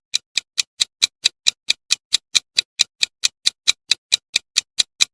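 Clock-ticking sound effect: short, sharp, evenly spaced ticks at about four to five a second, used as a quiz countdown timer.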